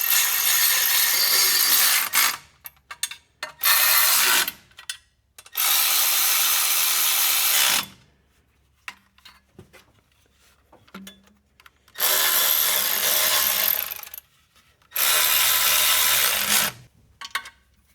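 Cordless power tool running in exhaust header bolts, in five bursts of one to two seconds each with short pauses between them.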